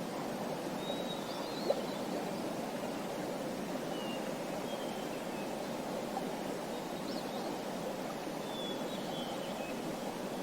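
Steady rush of flowing water, like a stream, with small birds chirping faintly every second or two.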